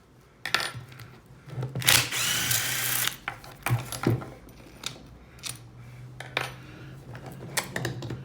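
Power drill running for about a second, about two seconds in, its whine rising at the start and then holding steady, between scattered knocks and clinks of hard parts being handled.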